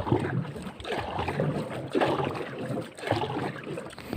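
Paddle strokes in water from a small paddled banca, a swishing splash coming back about once a second.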